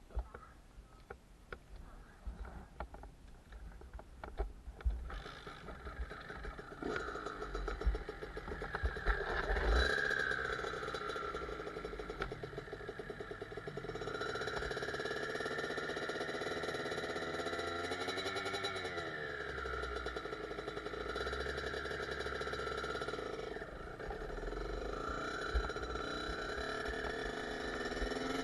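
Kawasaki KX65's small two-stroke single-cylinder engine running, its pitch rising and falling as it is revved. For about the first five seconds there are only scattered clicks and knocks before the engine sound comes in.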